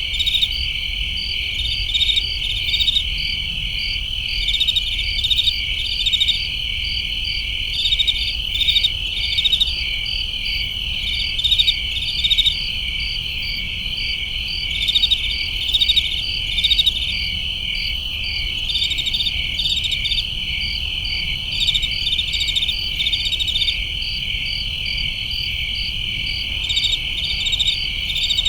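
Crickets chirping in a dense summer-night chorus: a steady high trill with rapid chirps over it, and louder groups of chirps coming every second or two.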